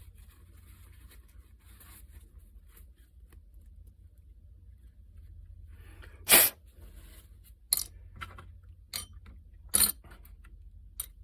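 Tools and small carburetor parts clicking and tapping as they are handled and set down, a few separate sharp knocks with the loudest about six seconds in, over a low steady hum.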